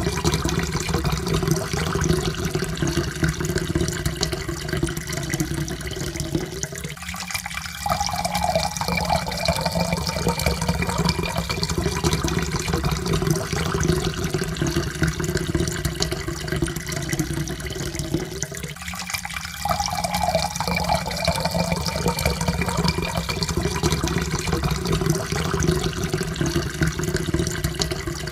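Water pouring steadily into a cup, with a faint tone that slowly rises as the cup fills. The pour breaks off briefly about seven seconds in and again near twenty seconds, then starts again lower and rises once more.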